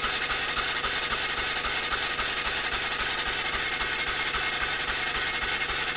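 Polaris Ranger engine being turned over steadily by its starter without firing, the ignition giving only weak, erratic spark.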